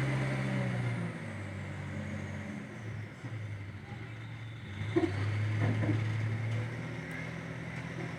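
Garbage truck engine running, its pitch dropping during the first second as it eases off, then running low and steady, with a few faint knocks about five seconds in.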